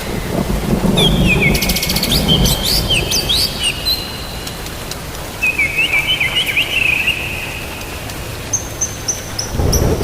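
Birds chirping in short phrases of quick whistled notes, with a falling series of high notes near the end, over steady rain; a low thunder rumble runs under the first few seconds and starts again at the very end.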